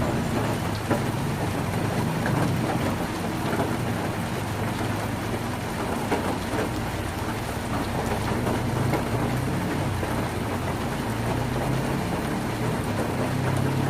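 Heavy rain drumming on a tin roof: a dense, steady patter of drops. A low rumble swells near the start and again later on.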